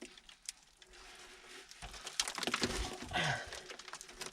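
Rocks and gravel scraping and clicking under hands and boots as a man climbs down a tight mine passage, with a short low grunt of effort about three seconds in.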